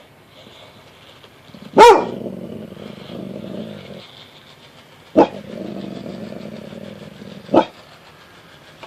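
Black Labrador retriever alert-barking: three deep barks a few seconds apart, the first the loudest, each trailing off into a low rumbling growl.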